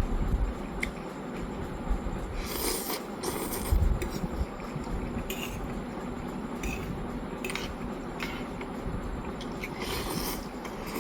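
A person eating noodles close to the microphone: chewing, with short slurping and scraping sounds now and then.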